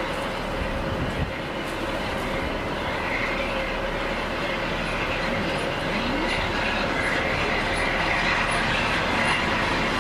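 A train running on the rails, its wheel and rail noise growing slowly louder, with a faint regular clicking about twice a second in the second half.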